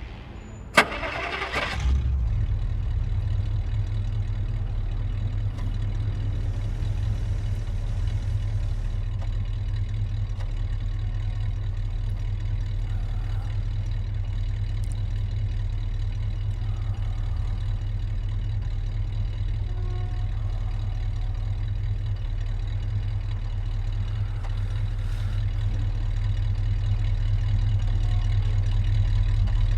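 Car engine started with a sharp click and a brief rising crank about a second in, then idling steadily.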